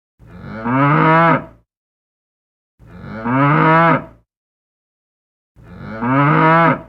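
A cow mooing: three alike calls about two and a half seconds apart, each about a second and a half long, rising and then falling in pitch, with dead silence between them.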